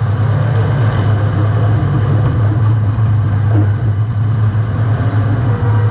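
Demolition derby compact car's engine running loud and steady with a low rumble, heard close up from a camera mounted on the car.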